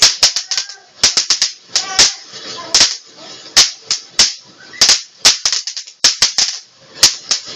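Fireworks going off in a rapid, uneven run of loud, sharp cracks and bangs, two or three a second.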